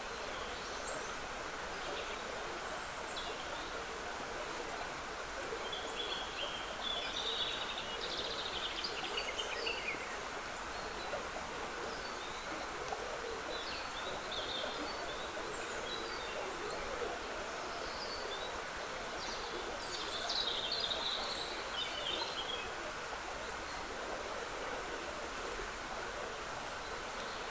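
Trickling water from a small woodland stream, a steady rush, with songbirds singing over it: scattered chirps throughout and two longer song phrases, about a quarter of the way in and again about three quarters through.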